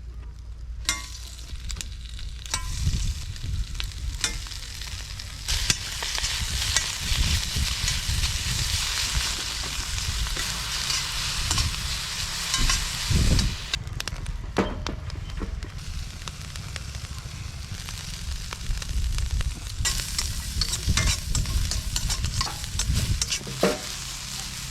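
Food sizzling in a pan, with scattered clicks and a low rumble underneath. The sizzle dies down for several seconds past the middle, then picks up again.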